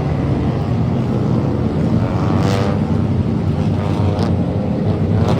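Front-wheel-drive stock race cars running on an oval track, their engines a steady drone with one car swelling louder as it passes about two and a half seconds in.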